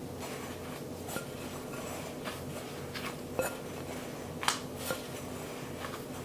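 A few light taps and clinks of kitchenware and utensils, the loudest about four and a half seconds in, over a steady low hum.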